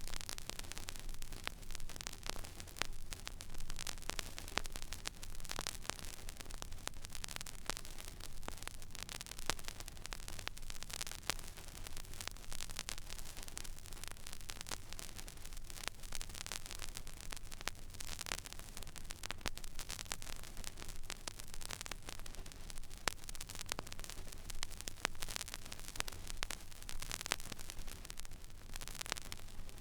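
Record player stylus tracking an empty, silent vinyl groove: steady surface hiss with frequent small crackles and pops, over a low steady hum.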